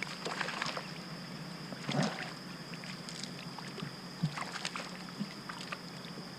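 Scattered light splashes and small knocks of water at a kayak while a hooked fish is brought in, the biggest splash about two seconds in, over a faint steady hum.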